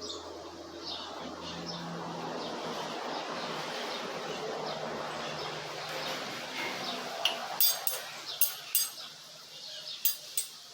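Steady scraping of a hand file on a steel bolt as a slot is cut into it to make a thread-cutting tap, followed by several sharp metallic clinks in the last few seconds.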